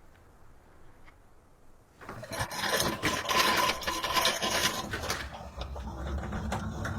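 A scraping noise that starts about two seconds in and turns lighter after about five seconds into scattered clicks and rustling.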